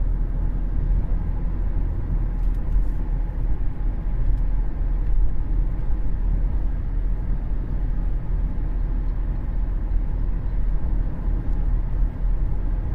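Steady road and drivetrain rumble inside the cabin of a 2013 Cadillac CTS 3.0 RWD cruising at road speed. Heaviest in the low end, with no sharp knocks or changes.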